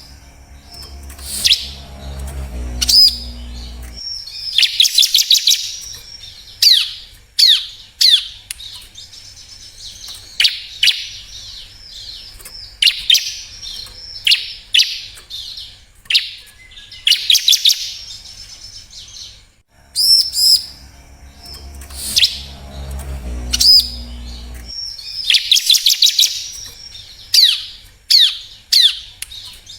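Bar-winged prinia (ciblek) singing: quick series of sharp, high chirps and steeply falling notes in repeated phrases, with a low rumble underneath at the start and again about two-thirds through.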